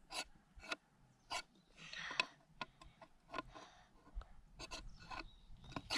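Steel knife spine scraping down a ferrocerium rod, about ten short rasping strikes at an uneven pace, one a little longer about two seconds in.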